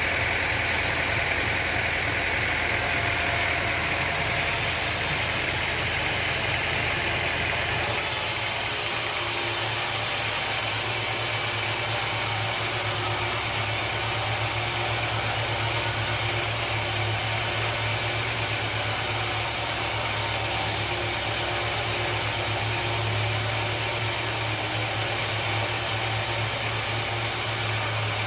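Sawmill machinery running steadily with a continuous low mechanical hum. The tone shifts abruptly about eight seconds in, when a higher band fades and the low hum grows stronger.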